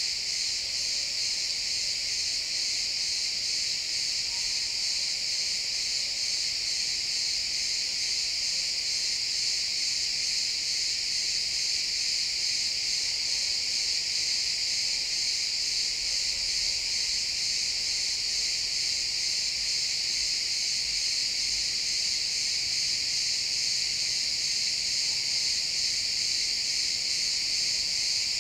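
Many crickets chirping together in a dense, steady, high-pitched chorus.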